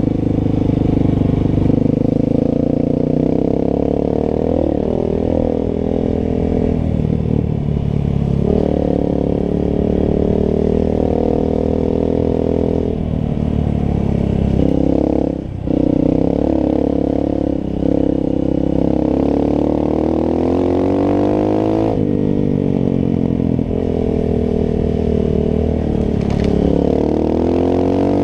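Single-cylinder four-stroke engine of a Honda CRF trail bike running under way. Its pitch rises and falls with the throttle, with a short let-off about fifteen seconds in and another about two seconds later.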